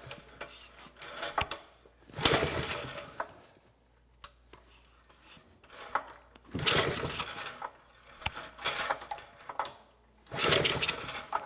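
Briggs & Stratton small engine on a minibike being pull-started with its recoil starter: several separate cranking pulls, each about a second long, without the engine catching and running.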